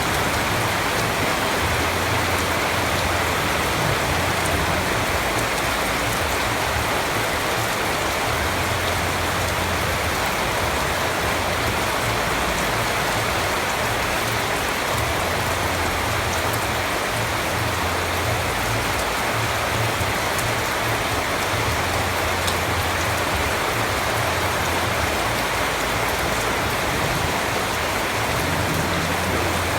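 Steady rain falling, an even hiss with scattered ticks of individual drops. A low rumble swells and fades several times underneath.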